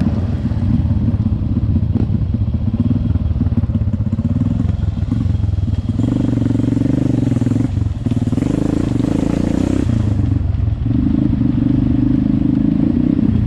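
Trail motorcycle engine running on board at low speed, the throttle opening and easing off a few times as the bike rides over a rough stone path.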